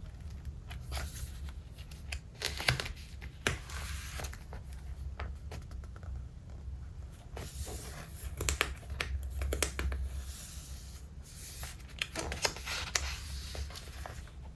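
Paper pages of a thick collaged traveler's notebook being turned and handled: a series of rustling swishes and crinkles, with small taps and clicks between them.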